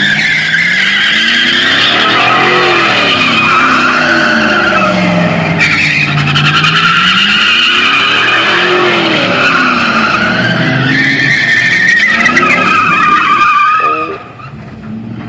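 Truck tires squealing loudly and steadily while the engine revs rise and fall several times; the squeal and revving stop abruptly near the end.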